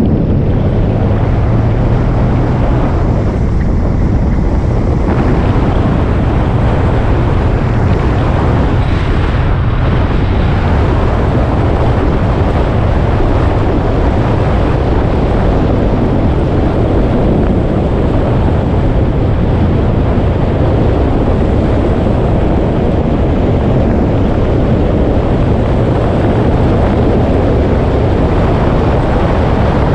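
Motorcycle under way, its engine running steadily beneath heavy wind noise buffeting the microphone.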